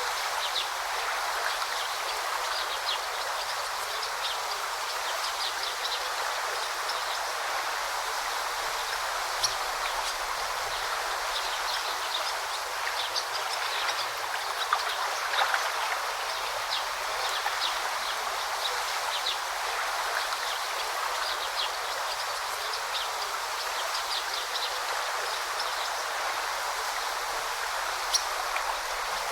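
A forest stream flowing steadily with a continuous babbling rush. Short high chirps of small birds are scattered through it, a few standing out louder.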